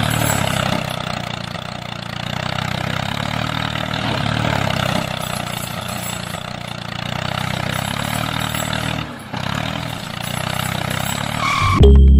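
A vehicle engine running steadily, its level swelling and easing, with a short break about nine seconds in. Loud music cuts in right at the end.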